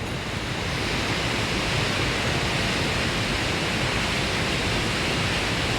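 Steady rushing of water, growing a little louder about half a second in.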